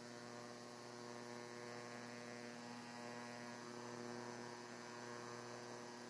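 Induction stove on high power humming steadily, with a faint hiss from a quart of water heating in the pan just short of the boil.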